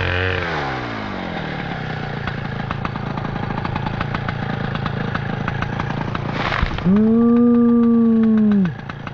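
Gas chainsaw coming off full throttle, its pitch falling to an idle that runs for several seconds. About seven seconds in it is revved up again for nearly two seconds, then drops back toward idle near the end.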